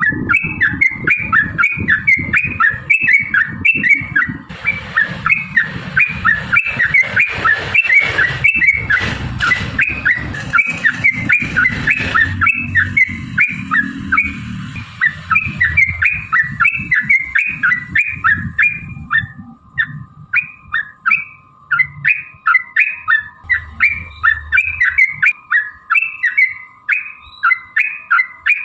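Yellow-vented bulbul (trucukan) singing a long, fast run of repeated chattering notes, about two or three a second. A low rumble sits under the song for much of its length.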